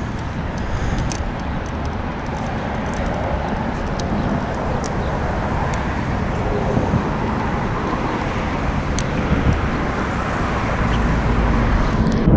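Steady rushing outdoor noise with a strong low rumble, slowly building, and scattered faint ticks.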